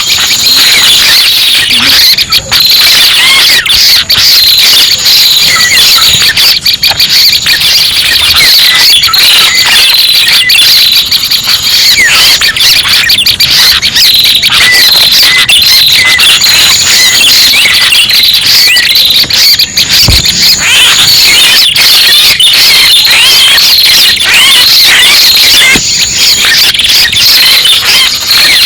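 Bird-luring recording of prenjak pala merah calls: a dense, unbroken stream of high-pitched chirps, trills and short whistled glides, played very loud.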